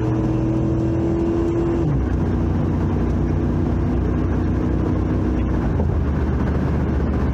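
Car driving, heard from inside the cabin: steady engine hum and road rumble, with the engine note dropping about two seconds in.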